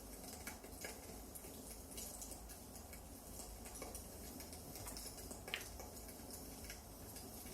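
Wood fire crackling: a low steady hiss and rumble with scattered small pops, and one sharper crack about five and a half seconds in.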